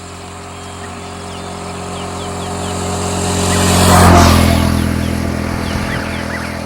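A motor vehicle drives past close by: its engine grows louder to a peak about four seconds in, drops in pitch as it passes, then fades away. Short, repeated downward bird chirps sound throughout.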